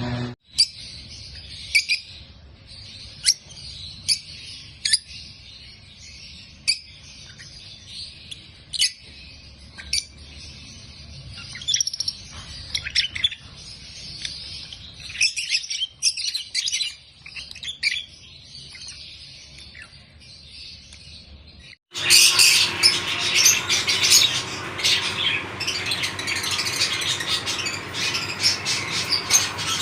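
A flock of lovebirds chirping: sharp high chirps come about once a second at first. About 22 seconds in, the sound cuts to a much louder, denser chatter of chirps from many birds.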